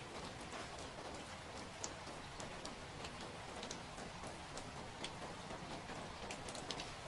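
Steady rain falling, an even patter with scattered sharper drops and drips throughout.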